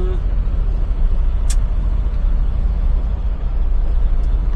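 Diesel engine of a day cab semi tractor running at low speed, a steady low rumble heard from inside the cab, with a short sharp sound about a second and a half in.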